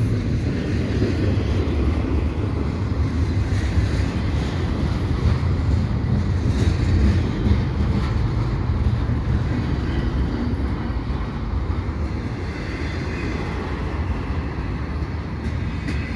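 Double-stack intermodal well cars rolling past at close range: a steady rumble of steel wheels on the rails, with a few faint clicks.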